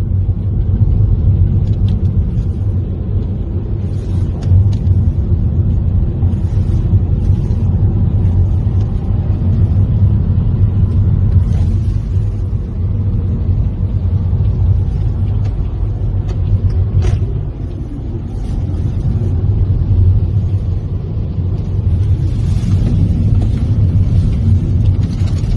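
Strong wind rumbling and buffeting on the microphone, a loud, steady low roar with a few sharp crackles.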